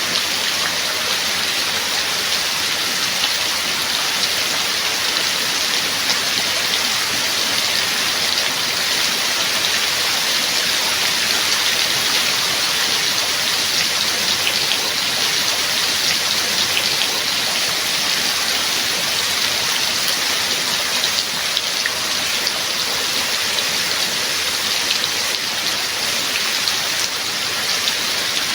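Steady rain: an even, continuous hiss of falling rain with individual drops ticking through it.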